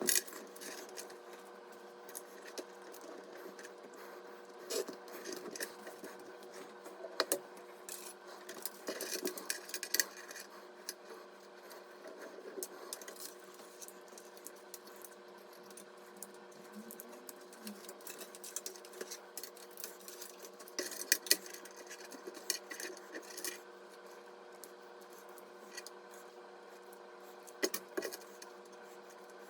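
Scattered small clicks, taps and rubbing of computer parts being handled during assembly, over a steady hum.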